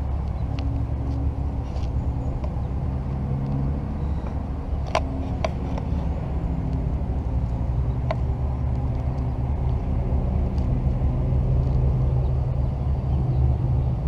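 Mercedes-Benz C300 with a custom exhaust idling steadily, a deep low engine note. It gets slightly louder in the last few seconds. A few light clicks come in about five seconds in and again around eight seconds.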